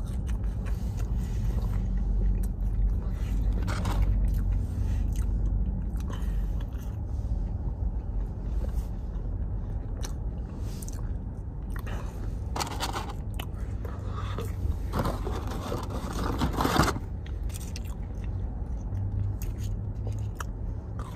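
A person chewing and crunching breaded chicken fries, in scattered crackly bites, over a steady low hum.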